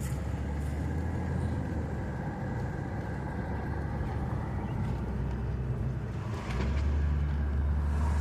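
Car engine and road noise, a steady low rumble that grows louder about six and a half seconds in.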